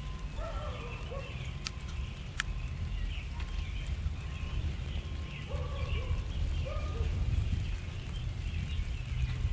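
Wild birds calling: scattered high chirps over a steady low rumble. Lower, pitched calls come about half a second in and again around six seconds in, with two sharp ticks about two seconds in.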